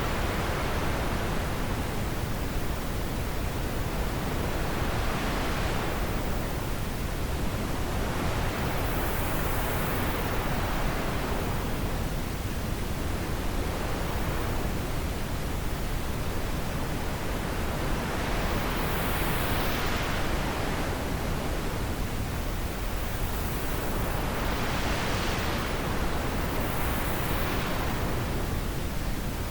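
Wind blowing in a steady rushing hiss that swells and eases in slow gusts every few seconds.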